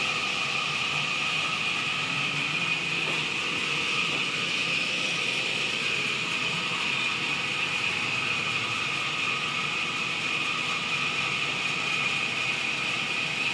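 Wood-cutting band saw running steadily, with a constant high whine over the machine noise.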